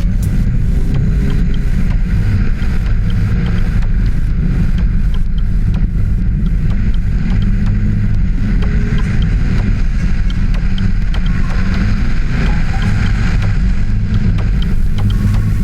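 Audi Turbo rally car's engine running steadily, a heavy low rumble with a hiss above it.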